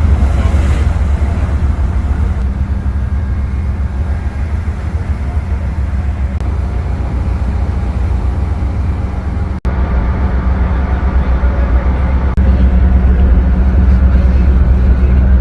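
Large boat diesel engine running with a steady deep rumble. It cuts out for an instant about ten seconds in, then carries on a little louder.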